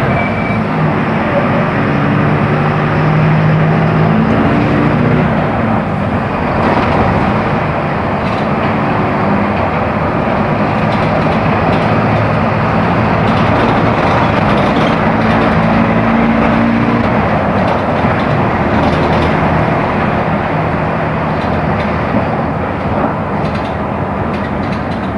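Mercedes-Benz OF-1418 city bus with its six-cylinder diesel engine running while it drives, a steady loud mix of engine and road noise, the engine note shifting in pitch a few times.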